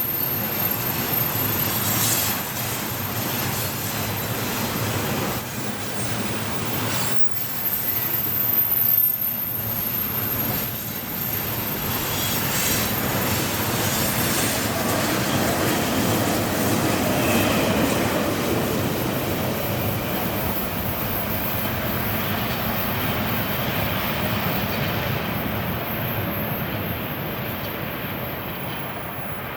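Freight train rolling past, its steel wheels running on the rails in a continuous din with a thin high squeal. The sound fades over the last several seconds, its high end dropping away first.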